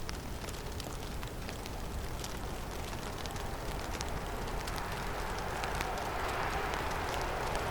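Snowstorm wind blowing through a forest, a steady rush with a low rumble that swells into a stronger gust from about halfway through, with scattered light ticks of falling snow or ice.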